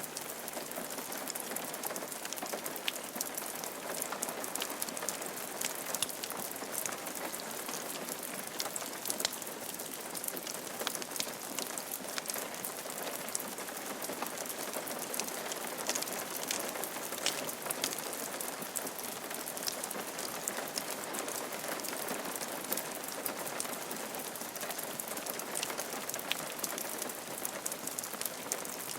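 Steady rain falling on a roof: an even hiss of rain with many sharp, separate drop ticks throughout.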